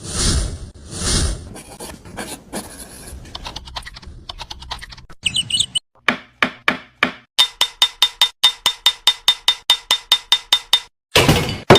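Hand tools working wood for a miniature cabin: scraping and rubbing with a few scattered knocks, then a steady run of quick hammer taps, about four a second, each with a ringing tone.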